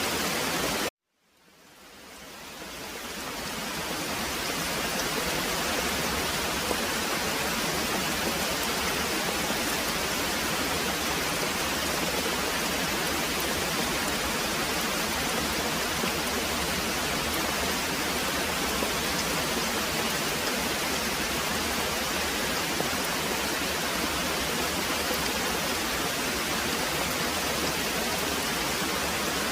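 Heavy rain as a steady, even hiss. About a second in it cuts out suddenly to silence, then fades back up to full level over a few seconds.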